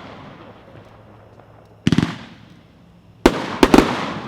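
Consumer fireworks cake (the 20-shot 'Worm Burner') firing shots: a quick cluster of bangs about two seconds in, then three sharp reports close together near the end, each trailing off in echo.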